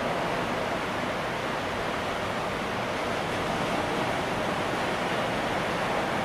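Ocean surf washing in a steady, unbroken rush of noise, with no single wave standing out.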